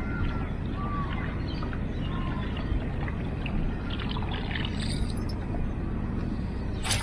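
Water trickling and splashing around a kayak, with a few short bird chirps in the first couple of seconds.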